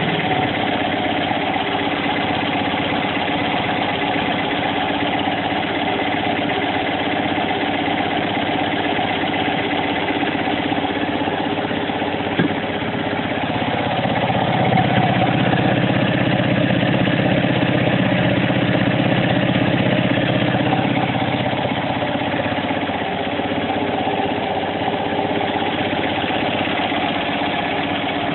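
Fiat 500L's 800cc air-cooled two-cylinder engine, on a Weber 30 DGF carburettor, idling steadily. Its idle runs a little louder and deeper for several seconds midway, then settles back.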